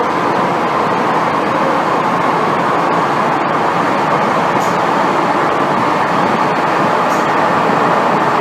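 Steady running noise inside an MTR M-Train carriage travelling between stations: wheels rolling on the rails and the train's running gear, with two faint clicks in the middle.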